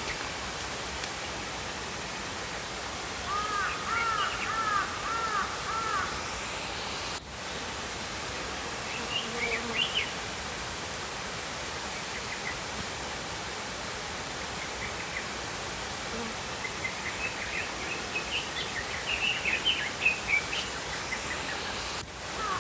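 A small stream flowing with a steady rush while songbirds call over it: a run of about six arching whistled notes around four seconds in, a few short chirps near ten seconds, and a busier stretch of chirping near the end.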